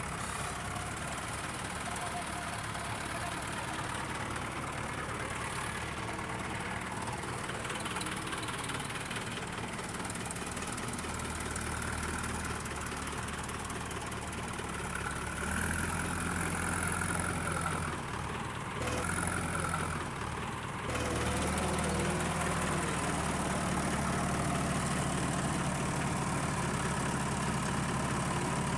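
Heavy diesel engine of a backhoe loader or tractor running steadily. It grows louder about halfway through, drops back briefly, then holds louder to the end.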